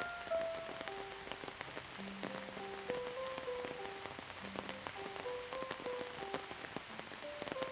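Steady rain falling, with individual drops pattering, over a slow, gentle melody of held notes stepping up and down.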